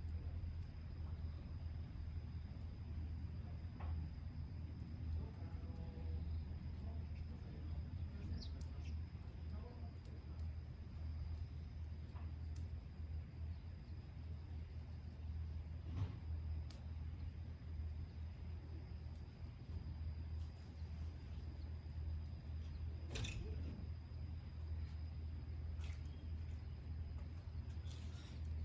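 Evening insects, crickets among them, chirping in a steady, fast, high-pitched pulsing over a low rumble, with a few sharp cracks from the bonfire's burning wood, the loudest about halfway through.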